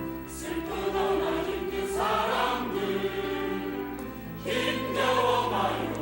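Church choir singing an anthem in Korean with accompaniment, in two swelling phrases.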